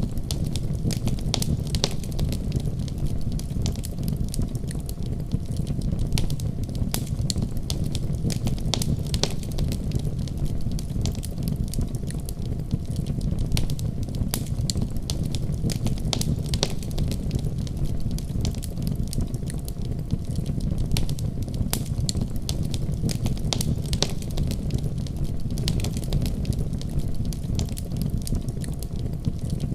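Wood fire burning in a fireplace: a steady low rumble of the flames with many small, sharp pops and crackles throughout.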